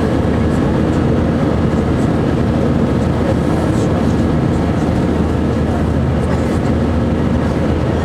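Steady engine and airflow noise inside the cabin of an Airbus A319, with a faint low hum running through it.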